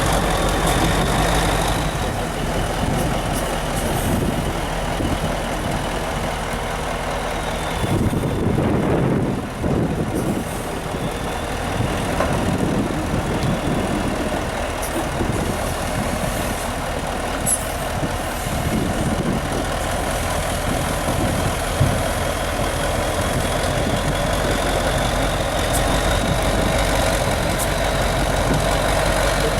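Heavy off-road trial truck's engine running under varying load, with an abrupt change in the sound about eight seconds in. Near the end a high whine rises in pitch.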